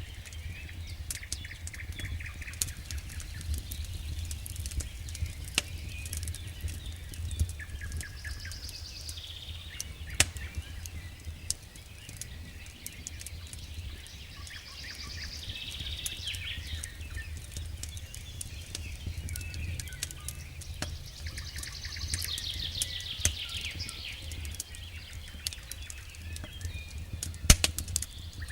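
Wood fire burning in a fireplace: irregular crackling with sharp pops, the loudest about a third of the way in and near the end, over a steady low rumble. Short high chirping sounds come now and then.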